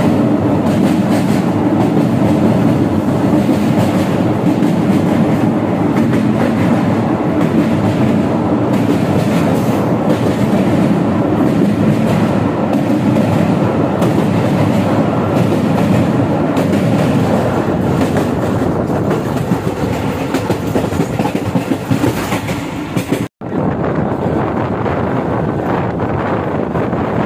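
Passenger train running at speed, heard from aboard: a steady, loud rumble of wheels on the track. About 23 seconds in the sound cuts out for an instant and comes back a little lighter, with wind on the microphone.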